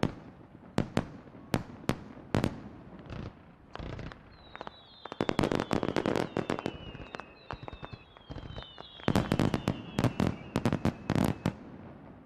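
Fireworks display: aerial shells banging one after another, building to two dense barrages of rapid bursts. Several whistles falling in pitch sound through the middle.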